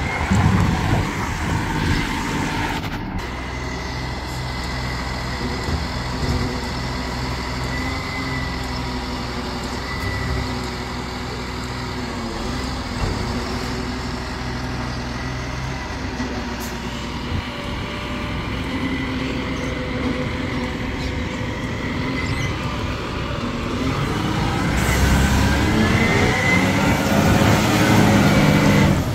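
Garbage truck's diesel engine running steadily, growing louder with its pitch rising near the end.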